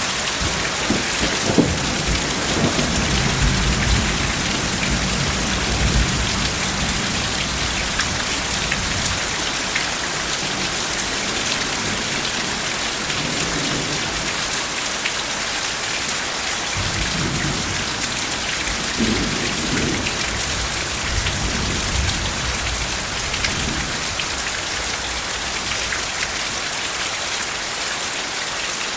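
Steady heavy rain falling on surfaces with scattered drop splashes, over low rolling thunder that rumbles during the first few seconds and again past the middle, then fades.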